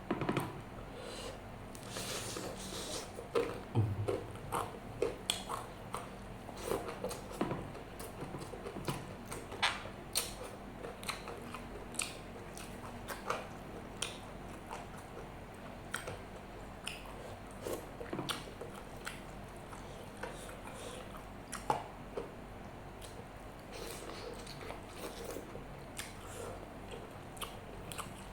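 Close-miked chewing and mouth sounds of a person eating, with frequent irregular short wet clicks and smacks.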